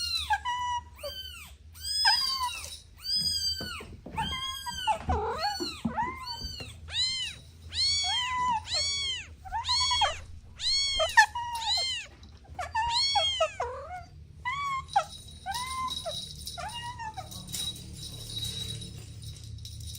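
Kitten meowing over and over in high calls that rise and fall in pitch, about one or two a second, stopping a few seconds before the end.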